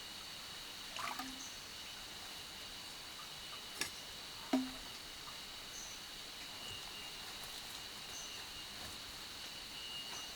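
Rainforest ambience: insects keeping up a steady high-pitched drone on two pitches, with a few short bird chirps. Three short knocks come about a second, four seconds and four and a half seconds in; the last is the loudest.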